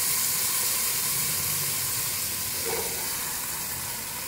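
Masala of onion, ginger-garlic paste, spices and tomato frying in hot oil in a pot: a steady sizzling hiss that slowly eases.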